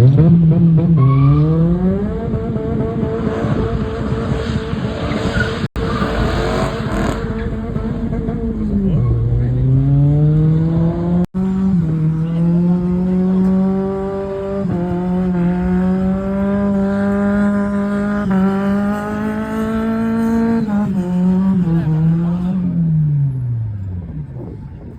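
A car doing a burnout: the engine is held at high revs for long stretches while the tyres squeal against the pavement. The revs drop and climb again about a third of the way through, then fall away near the end.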